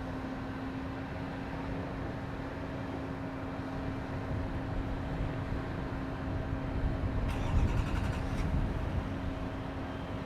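Eurocopter UH-72A Lakota helicopter running: a steady low hum over a rumble, with a short run of rapid clicks about three quarters of the way in.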